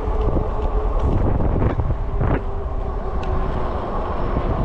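Wind buffeting the microphone and steady rolling road noise from a moving e-bike, with a faint steady hum and a couple of short knocks in the middle.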